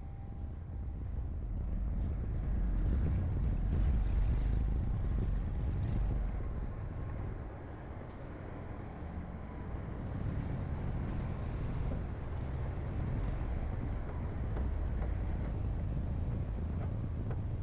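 Heavy diesel earthmoving machinery running, a deep engine rumble that swells for a few seconds, eases about halfway through, then builds again.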